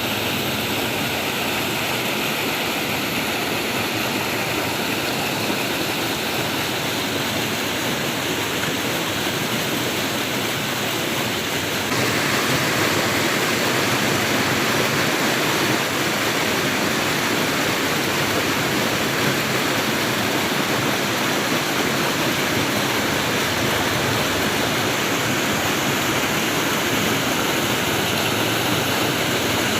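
Flowing water rushing steadily, like a stream or small waterfall, with no breaks; it gets a little louder and brighter about twelve seconds in.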